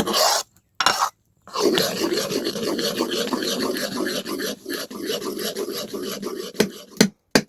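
Repeated scraping strokes, a short one at the start and again about a second in, then steady scraping for about five seconds, ending in two sharp knocks.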